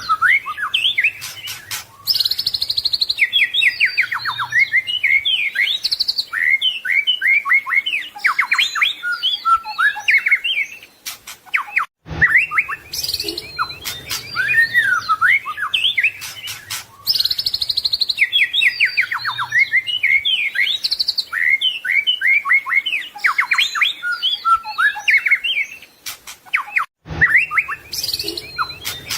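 White-rumped shama (murai batu) singing a loud, rapid, varied song of whistles, trills and chattering notes. The song breaks off sharply twice and resumes.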